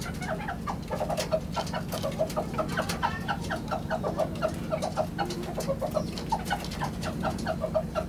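Birds calling in a rapid, continuous run of short repeated notes, several a second, with scattered sharp clicks and a steady low hum beneath.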